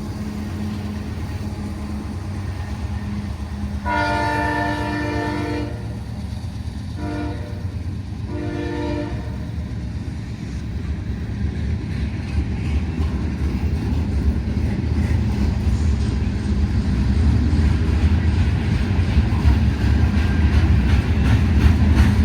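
Freight train diesel locomotive horn sounding three blasts: a long one about four seconds in, then a short one and a slightly longer one. Then comes the low rumble of the locomotives, growing louder as the train approaches, with wheels clacking over the rail joints near the end.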